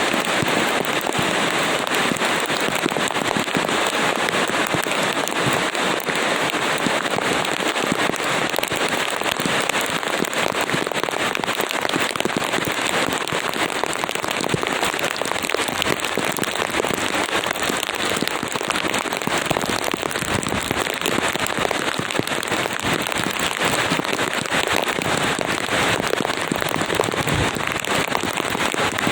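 Steady rain falling: a dense, even patter of countless drops that does not let up.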